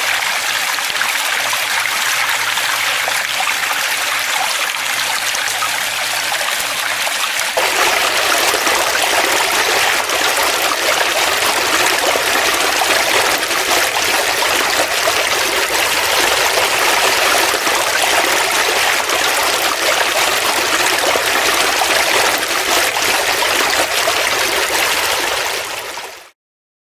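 Flowing water running steadily; about seven seconds in it becomes fuller and a little louder. It fades out quickly near the end.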